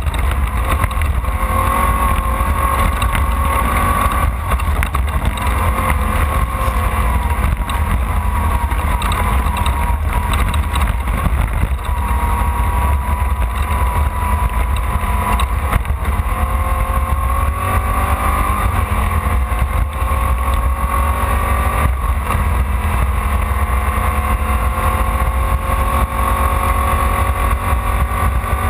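Off-road race car's engine running hard, its pitch rising and falling as the throttle is worked, over a steady heavy low rumble.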